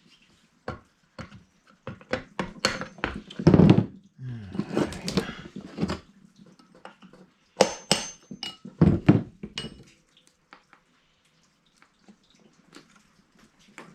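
Metal tools and engine parts clinking, clanking and knocking as an old small engine is worked on by hand, some strikes ringing briefly; the clatter dies away about ten seconds in.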